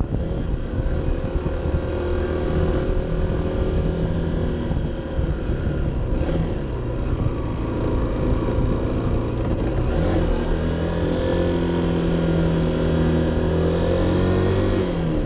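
Honda CB 125 F's small single-cylinder four-stroke engine pulling steadily under load, heard onboard. Its pitch rises about two-thirds of the way through and falls off sharply near the end as the bike slows.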